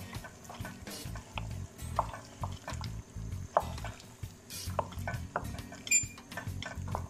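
Spoon stirring in a pot of cooking ketchup ingredients, with irregular clicks and knocks of the spoon against the pot.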